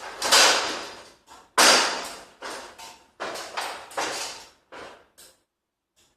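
A series of about eight sharp bangs, each fading out over a fraction of a second. The loudest are in the first two seconds, and they grow fainter and sparser toward the end.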